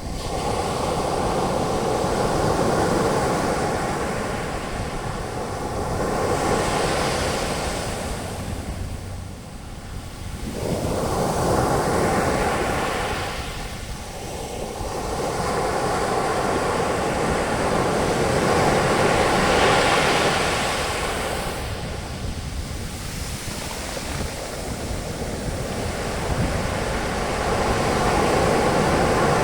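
Ocean waves breaking on a beach and washing up as foam, the surf swelling and falling back every few seconds, with some wind on the microphone.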